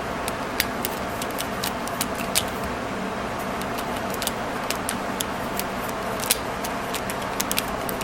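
Irregular light clicks, a few each second, over a steady background hum.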